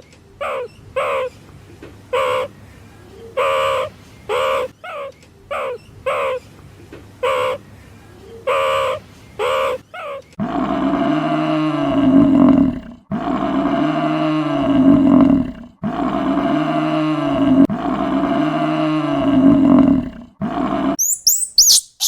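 Animal calls: a run of short, quick calls under a second apart, then four long calls of about two and a half seconds each that rise and fall in pitch.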